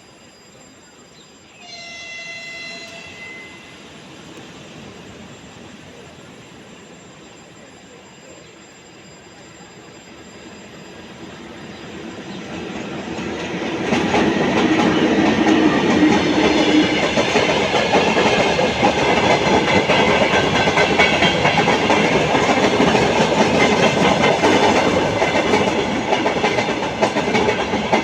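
A train horn sounds once, briefly, about two seconds in. Then a freight train hauled by a 2ES4K "Donchak" electric locomotive approaches, growing steadily louder, and passes close by, its wheels running on the rails.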